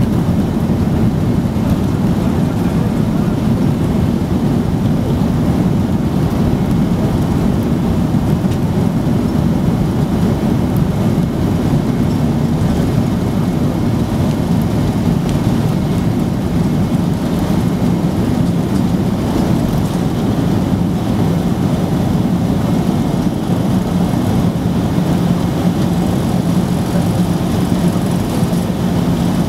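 Loud, steady rumble inside the cabin of a Boeing 767-300ER with its jet engines running, with a low hum that grows a little clearer near the end.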